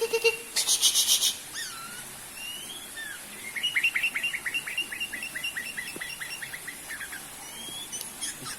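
A songbird singing: a short buzzy rattle about a second in, a few whistled slurs, then a long run of quick downslurred notes, about five a second.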